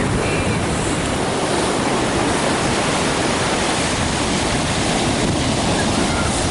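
Ocean surf: a steady, unbroken rush of breaking waves.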